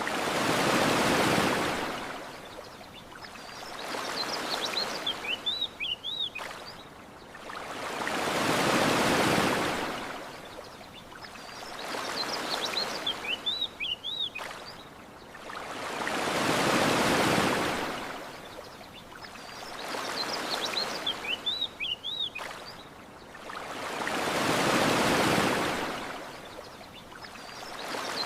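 Gentle surf washing onto a shore in four slow swells about eight seconds apart. Short, high bird chirps are heard in the lulls between the waves.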